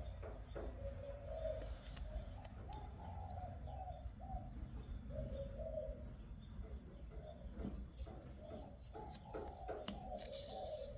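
A bird calling over and over in short, wavering phrases, with a few sharp clicks and a steady low hum underneath.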